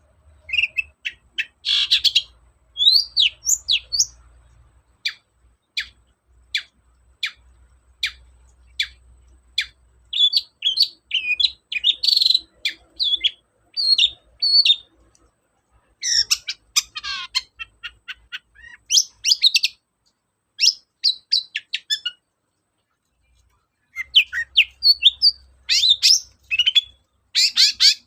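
Long-tailed shrike (cendet) singing vigorously: rapid bursts of sharp, high chirps and scratchy notes, broken by short pauses and one longer gap about three quarters of the way through.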